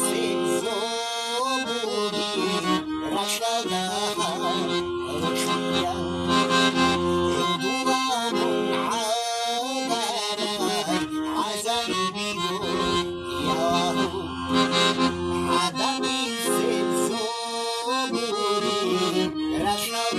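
Accordion playing a melody over sustained low notes, with a steady repeating bass pulse.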